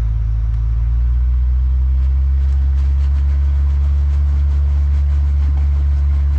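Off-road 4x4 engine running steadily at low revs, a deep even drone, with faint rapid ticking joining about two seconds in.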